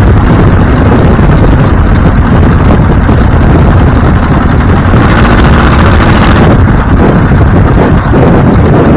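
Loud, steady rush of wind and road noise from a moving vehicle, heavy in the low end. A brief rise in hiss comes about five seconds in and lasts under two seconds.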